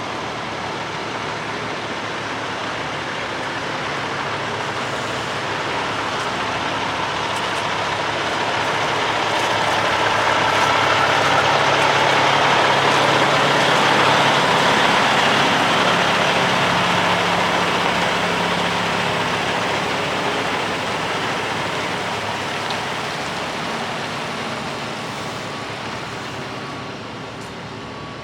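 Heavy vehicle running, a steady noise with a low hum that swells to its loudest about halfway through and fades again toward the end.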